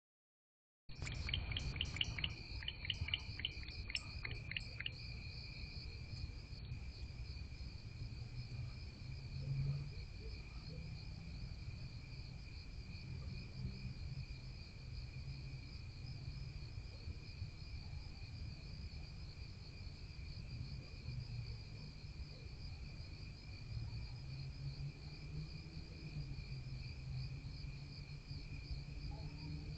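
Crickets singing steadily, starting about a second in. Over the first few seconds comes a quick run of short sharp clicks or chirps, with a low rumble underneath.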